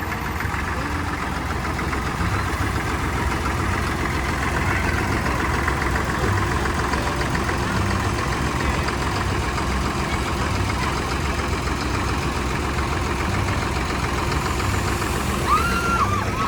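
Tractor diesel engines running as tractors drive past in a procession: a steady low rumble with a pulsing beat. Near the end a few short gliding tones sound over it.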